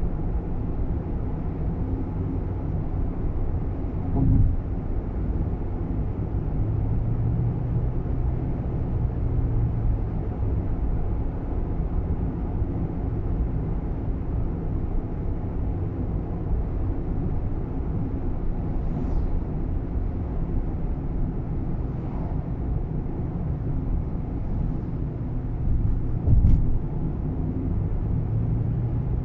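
Steady engine and road rumble inside the cabin of a moving Nissan Roox, with two thumps, about four seconds in and near the end, and a few faint clicks in the second half.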